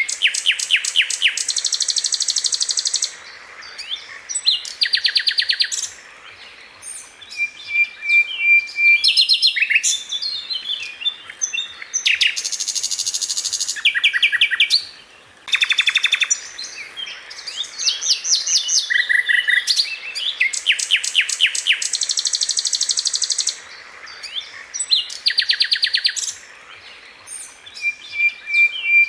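Sikatan Londo flycatcher song: fast, dense trills of rapidly repeated high notes in bouts of one to three seconds with short pauses between them, the 'tembakan' bursts prized for training songbirds. The same sequence of phrases comes round again about twenty seconds in, as in a looped recording.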